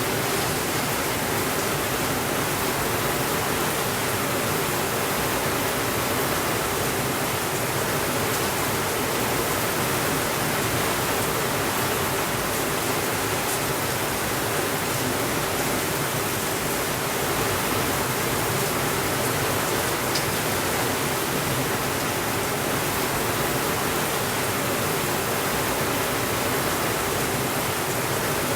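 Heavy rain falling in an even, unbroken hiss that holds the same level throughout.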